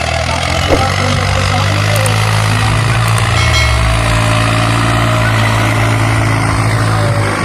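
New Holland 3630 tractor's diesel engine running steadily.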